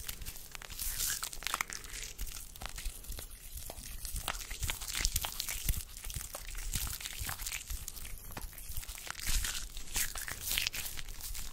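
Close-miked ASMR hand sounds: a continuous dry rustling of hands and fingers, packed with many small crackles and clicks.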